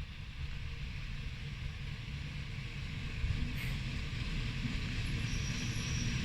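Approaching train, a low rumble growing steadily louder.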